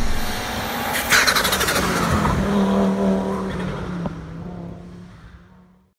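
Race car engine sound effect: it revs up, flares loudly about a second in, holds a steady note, then fades away to silence near the end.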